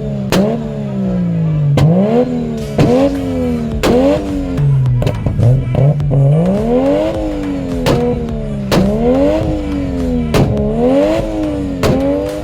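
A car engine revved hard over and over, its pitch climbing then dropping about once a second, with a sharp crack at many of the peaks.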